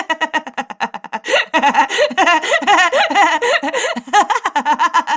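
Human laughter: rapid, repeated bursts of giggling and chuckling that grow denser and louder about a second and a half in.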